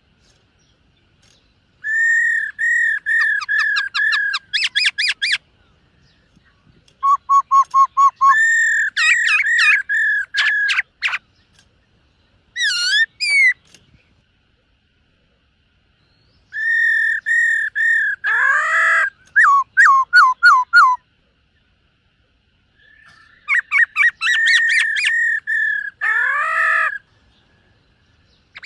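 Black-throated laughingthrush singing: five phrases of fast repeated clear notes, with pauses of one to three seconds between them.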